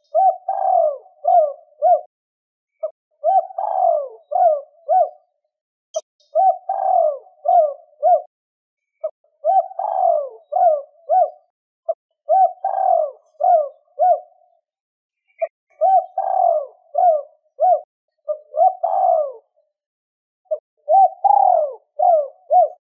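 Spotted dove cooing, repeating the same short phrase of several notes about every three seconds. It is the decoy call used to lure wild doves in.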